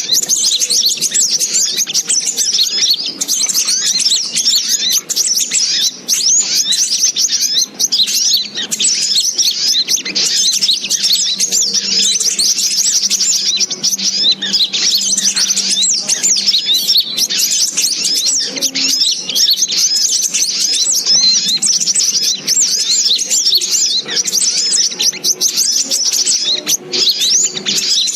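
Sogok ontong (spiderhunter) calls as used in a bird-lure recording: a dense, unbroken stream of fast, high, overlapping chirps.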